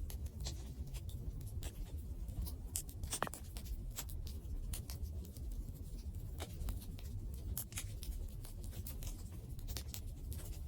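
Wood fire crackling: irregular sharp pops and ticks over a low steady rumble, with a louder pop about three seconds in.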